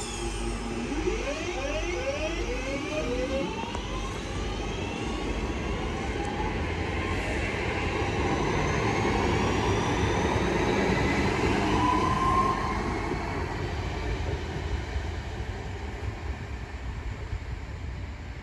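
Class 323 electric multiple unit pulling away. Its traction motors whine in a series of rising tones over the first few seconds, over a steady rumble of wheels on rails. The sound grows louder to about twelve seconds in, then fades as the train leaves.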